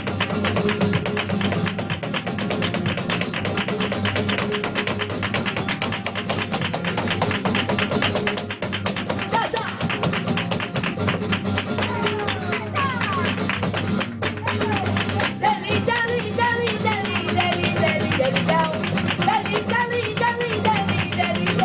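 Live flamenco music por tientos: flamenco guitar playing with rapid strokes, and a singer's voice, bending in pitch, joining about halfway through.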